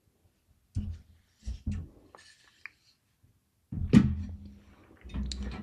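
Knocks and clunks from handling a small-form-factor PC case and its parts, with a small clink between them. The loudest knock comes about four seconds in and is followed by a short low ringing.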